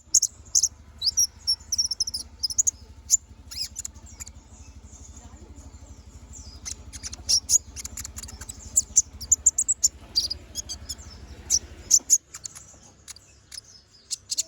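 A konin (kolibri ninja) sunbird singing a chattering song of rapid, sharp, high-pitched chirps and short trills in bursts. A steady low hum runs underneath and stops about two seconds before the end.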